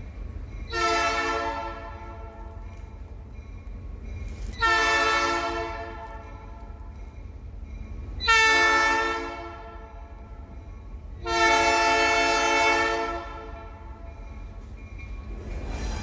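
Locomotive air horn sounding the grade-crossing signal: two long blasts, a short one, then a final long one, each a chord of several steady tones, over a low steady rumble.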